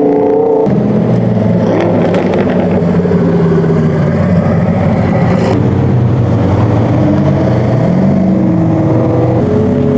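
Car engine running, its pitch stepping up about a second in and briefly rising and falling near the end, as a car is revved.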